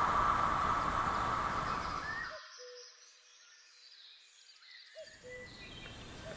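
Steady noise of a locomotive-hauled electric train running away down the track, fading, then cut off abruptly about two and a half seconds in. Faint bird chirps follow over quiet outdoor ambience.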